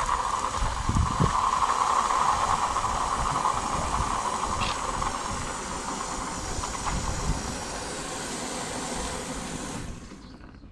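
Water running hard from a garden hose into a container to fill it: a steady hiss that starts abruptly and cuts off about ten seconds in.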